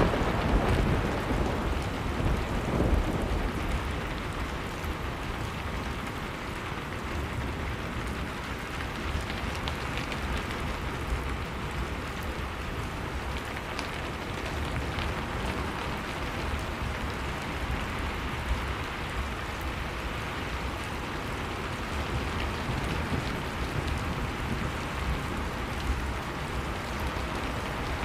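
Blizzard wind rushing steadily with a deep rumble, over the faint scattered crackle of a wood fire in a fireplace. The wind is a little louder in the first few seconds.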